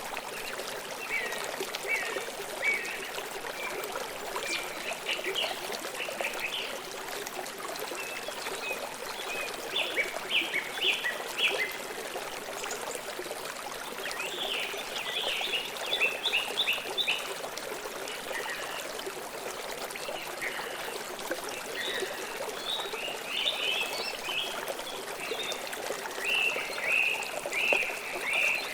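Stream water flowing with a steady rush. Small birds chirp in short runs of quick, high notes every few seconds.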